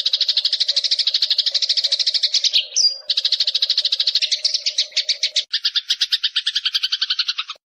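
Eurasian tree sparrow chattering: a fast, unbroken run of sharp chirps, about ten a second, that shifts to a lower, fuller chirp about halfway through and cuts off abruptly just before the end.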